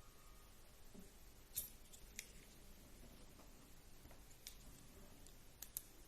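Near silence broken by a few faint, sharp clicks of small plastic and metal RC car parts being handled: about five ticks, the loudest about a second and a half in and two close together near the end.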